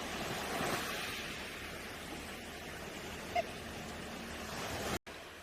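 Sea waves washing on the shore, swelling about a second in, with one short high call about three and a half seconds in.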